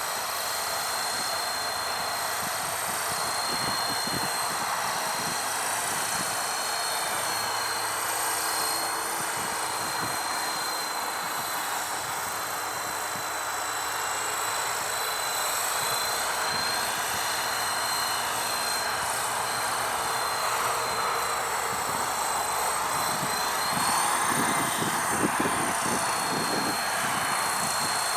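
Helicopter in flight: steady engine and rotor noise with a thin high whine running over it, wavering slightly in pitch.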